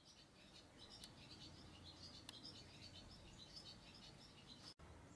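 Faint outdoor birdsong: small birds chirping in many short, high, rapid chirps, which cut off suddenly near the end.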